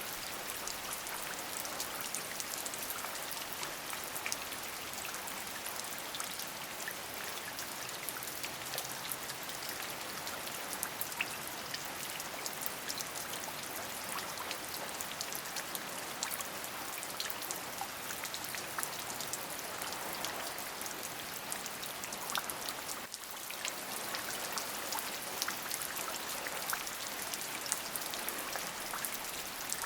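Steady rain, an even hiss filled with many separate drop strikes, with a brief dip in level about three-quarters of the way through.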